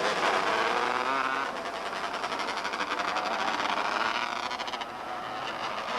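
Engines of several small race cars running hard at high revs, their pitch wavering up and down as they speed up and back off around the track.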